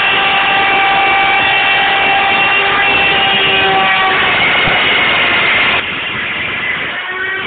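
CNC machine running under G-code control: its motors give a loud, steady whine made of several tones over a rushing noise. The tones change pitch about four seconds in, and the sound drops in level a couple of seconds later.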